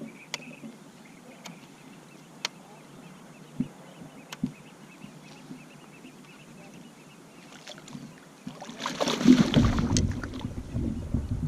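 Sounds of a fishing kayak on the water: scattered light knocks and clicks, then about nine seconds in a loud rushing, splashing noise lasting about two seconds.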